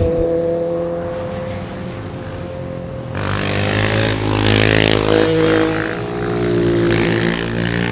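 A car engine running steadily, then about three seconds in a louder car engine as a car drives past, loudest around five seconds, its pitch sinking slightly as it goes by.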